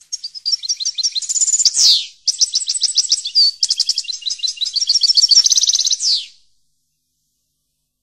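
A songbird singing two phrases of fast, high trilled notes, each ending in a quick downward slur; the second phrase is the longer, and the song stops about two-thirds of the way in.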